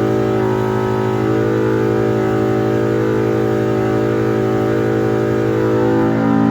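Polaris RZR Pro R four-cylinder engine running on an engine dynamometer, holding a fairly steady pitch.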